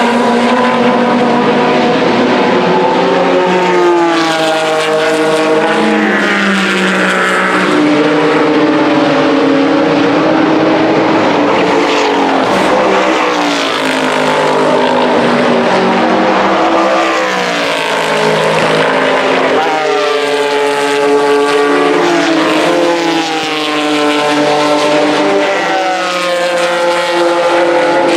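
Vintage race car engines at high revs, their pitch climbing through the gears and dropping at each shift, again and again, with more than one car heard at once.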